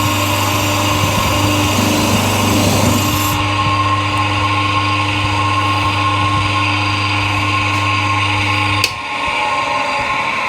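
Power tool spinning a Scotch-Brite abrasive wheel against a motorcycle cylinder head, running at steady speed with a constant hum and scrubbing hiss. About nine seconds in there is a click and the motor cuts out.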